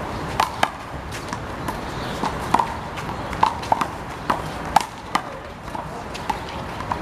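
Rubber handball being slapped by hands and smacking off the wall and court during a one-wall handball rally: a quick, irregular series of sharp slaps and bounces.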